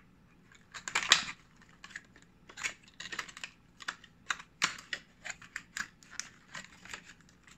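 Clear plastic blister packaging crackling and clicking as it is pried at by hand to get it open: irregular sharp clicks and crinkles, the loudest about a second in.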